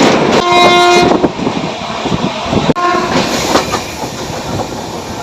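Train running on the rails, loud at first and then settling to a steady rumble, while the locomotive horn sounds twice: a blast of about half a second near the start and a shorter toot about three seconds in.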